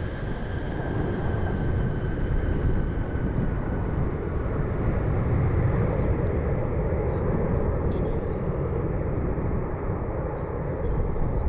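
Boeing 737 MAX 8 jet engines passing on landing approach: a steady rushing roar with a high whine that slowly falls in pitch over the first few seconds. The roar is loudest about halfway through.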